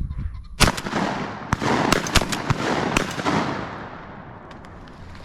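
Rapid volley of shotgun shots from several guns firing at flushed pheasants: a string of sharp reports, about half a dozen, from half a second in to about three and a half seconds, overlapping and echoing, then dying away.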